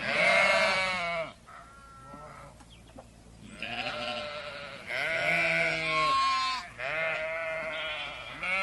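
Sheep bleating: a series of about five or six wavering calls with short gaps between them.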